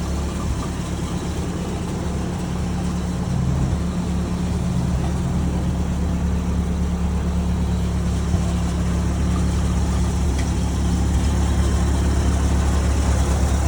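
Ford Model AA truck's four-cylinder engine idling with a steady low drone.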